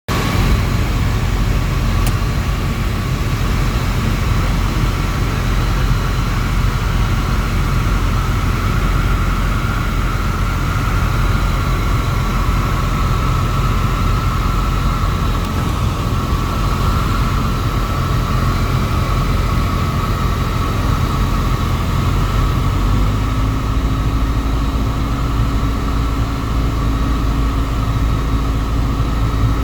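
Embraer EMB-712 Tupi's single four-cylinder piston engine and propeller droning steadily. About three quarters of the way through, the engine note changes and a new steady tone joins the hum.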